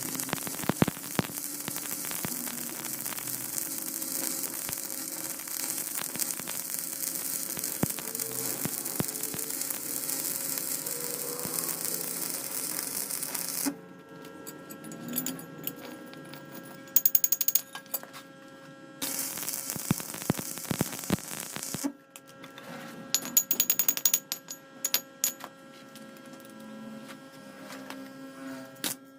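Metal lathe running with a steady motor hum while machining a wheel hub. A dense cutting hiss stops abruptly about halfway through, and after that come bursts of metallic clicks and clatter.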